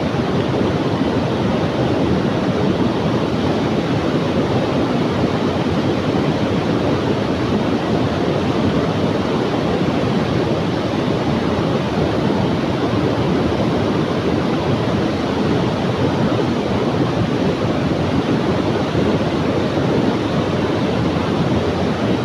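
Fast river current rushing steadily, the river running high and muddy after heavy rain upstream.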